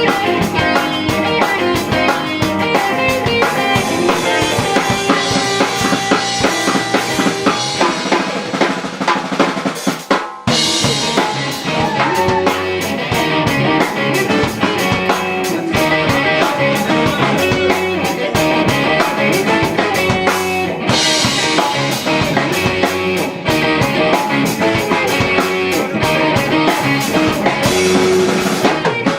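Live rock band playing loudly, with the drum kit driving a steady beat under the guitars. There is a brief stop about ten seconds in, and then the whole band comes back in.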